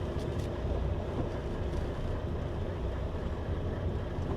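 Truck's diesel engine running steadily at low revs, a constant low rumble.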